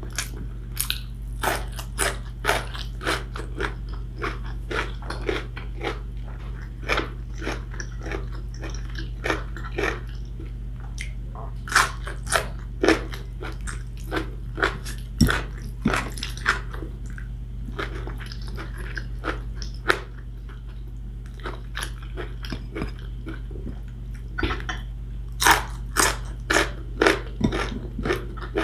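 Close-up eating sounds: a person chewing and biting chicken wing adobo and rice eaten by hand, with many sharp, irregular crunchy bites and wet mouth noises over a steady low hum, and a brief lull about two-thirds through.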